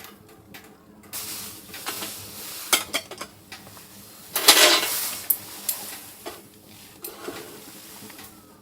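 Cookware and utensils clinking and clattering in a series of sharp clicks, with a louder rushing noise about halfway through that lasts under a second.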